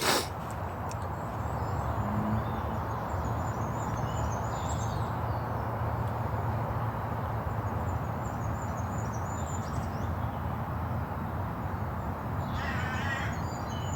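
A crow gives a single harsh caw near the end, over steady outdoor rushing noise and faint high chirping of small birds. A short sharp click comes at the very start.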